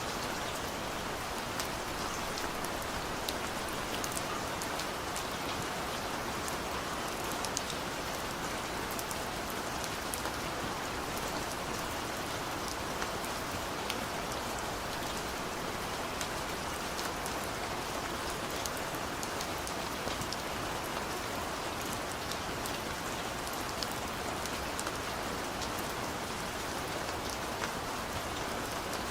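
Heavy rain pouring steadily, an even dense hiss with scattered individual drops ticking.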